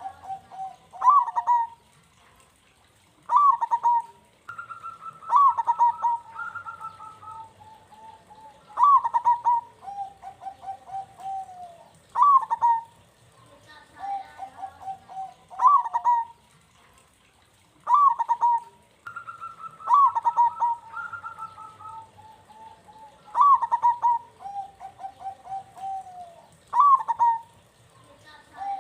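Zebra dove (perkutut) cooing in repeated phrases, each a loud opening note followed by a trilled, purring run, about every three to four seconds. At times a second, higher coo overlaps.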